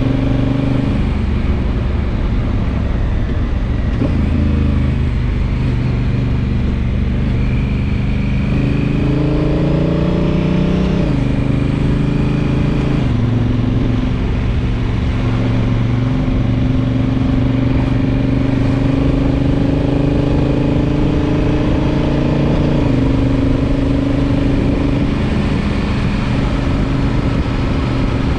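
Honda Africa Twin DCT's parallel-twin engine pulling under way. The engine note rises steadily, then drops twice in quick succession as the dual-clutch gearbox shifts up. It then runs at a fairly even cruising pitch, with another drop later on, over road and wind noise.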